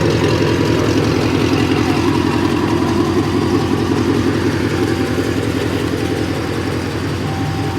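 Car engine idling steadily, easing a little quieter near the end.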